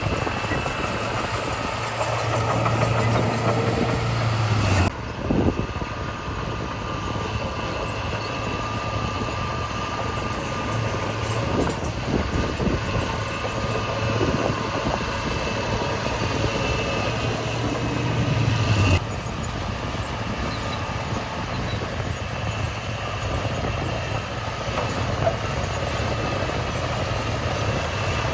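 Heavy diesel construction machinery running steadily with a low engine hum. The sound breaks off and changes abruptly twice, about 5 and 19 seconds in.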